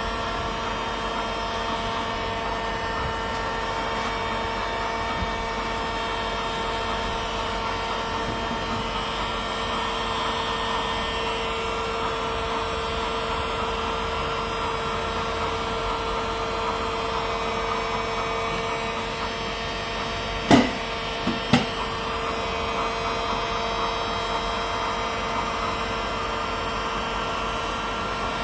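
A hot-air plastic welding gun's blower running steadily with a constant whine, while a crack in a plastic water tank is welded. Two sharp knocks about twenty seconds in.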